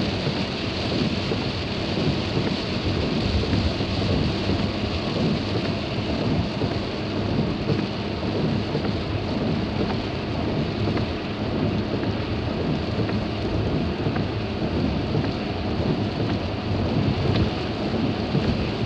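Heavy rain drumming steadily on a car, heard from inside the cabin while driving through a downpour.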